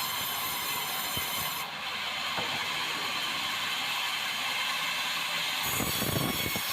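Swing blade sawmill running with a steady high-pitched whine and ringing metallic tones over a hiss. Near the end a low rumble joins in.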